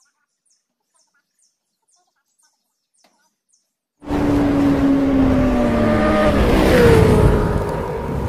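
About four seconds of near silence with faint high chirps, then a motorcycle engine sound effect cuts in suddenly and loud. Its pitch falls slowly as it runs, and it fades near the end.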